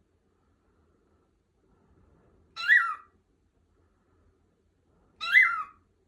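Lutino cockatiel calling twice, about two and a half seconds apart. Each call is a short whistle that rises and then falls in pitch.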